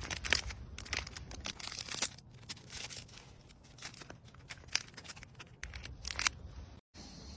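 Irregular crackling and rustling handling noise: many short clicks at uneven spacing, breaking off for a moment near the end.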